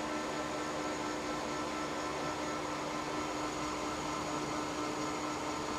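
Metal lathe running steadily during a boring cut in an Inconel part: an even hum with a few held tones.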